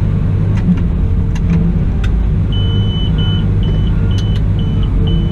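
Cat 972M XE wheel loader's diesel engine running steadily under work, with a few short clicks. About halfway through, a high-pitched reversing alarm starts beeping about twice a second.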